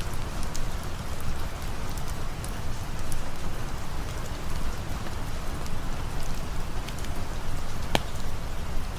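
Steady rain falling, with a campfire crackling: scattered sharp pops and one louder crack near the end.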